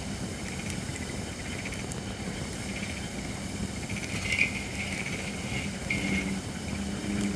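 Holly firewood burning in a campfire, crackling with a few sharp pops, the loudest about four seconds in. Behind it runs a steady chirring animal chorus and a low hum.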